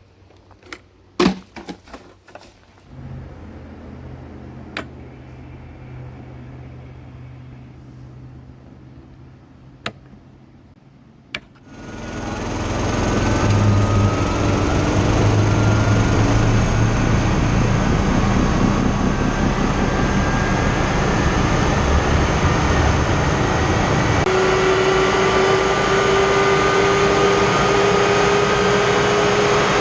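A jet engine starting: a few clicks and knocks over a low steady hum, then a sharp click just before the engine lights. Its sound rises over about two seconds to a loud steady roar, with high whining tones slowly climbing in pitch as it spools up.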